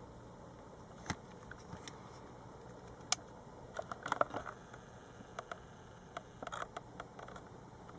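Scattered light clicks and taps over a faint steady hiss, with one sharp click about three seconds in and a short run of rattling clicks about a second later.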